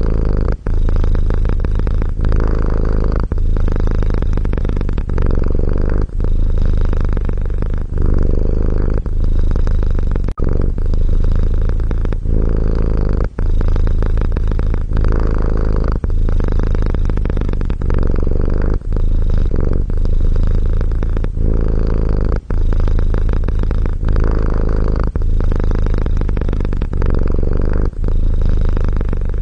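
Domestic cat purring continuously in an even, repeating rhythm.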